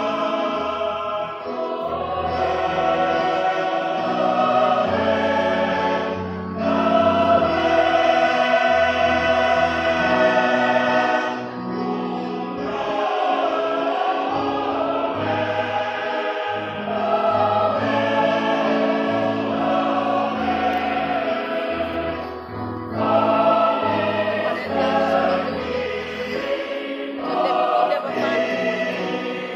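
Church choir singing a hymn in several parts, in sustained phrases with brief breaks between them.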